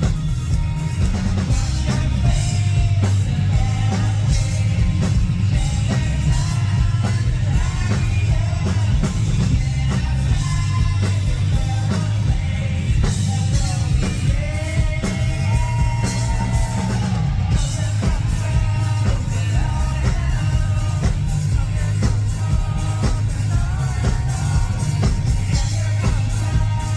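Rock band playing live, with a lead singer over drums, guitars and heavy bass.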